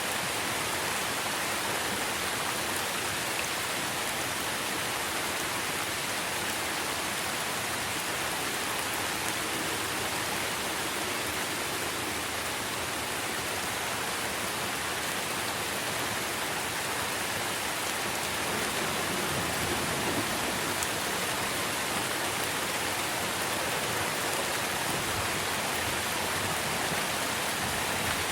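Steady heavy rain falling on tree leaves: a dense, even hiss of drops that holds at the same level throughout.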